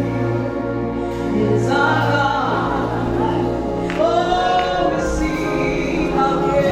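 Gospel worship music: a choir singing over a steady instrumental backing.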